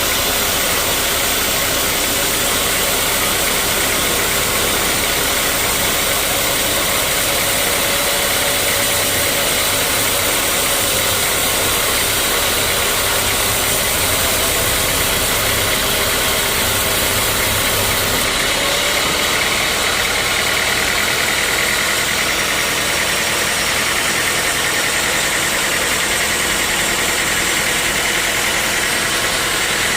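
Sawmill machinery running steadily with a loud, even noise that shifts slightly about eighteen seconds in.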